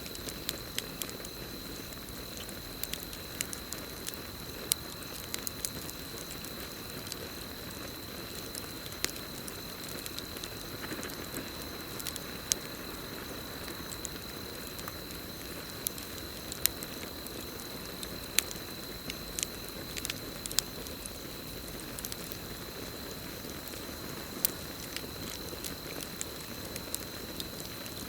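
Campfire crackling, with sharp pops scattered irregularly over a steady hiss, and a continuous high-pitched trill of crickets behind it.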